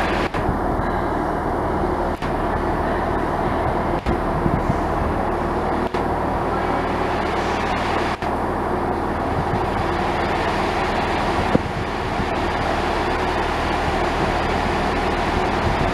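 A large engine running steadily: a low, even hum under a dense rumble, with no change in speed.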